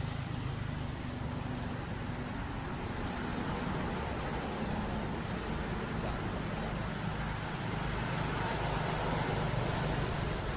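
Steady background noise: a continuous high-pitched whine over a low, even rumble, with no distinct events.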